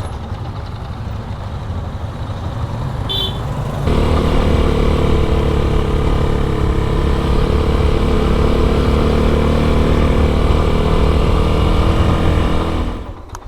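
Motorcycle engine running: it gets louder about four seconds in, holds a steady note, then dies away near the end.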